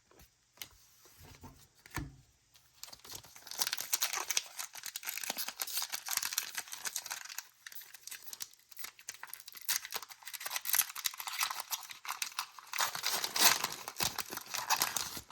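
Foil wrapper of a Pokémon trading-card booster pack being crinkled and torn open, with dense crackling for most of the stretch after a few light taps at the start.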